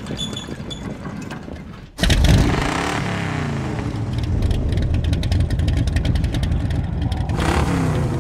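The General Lee, a 1969 Dodge Charger with a V8, starts loudly about two seconds in. The engine is then revved again and again, its pitch rising and falling.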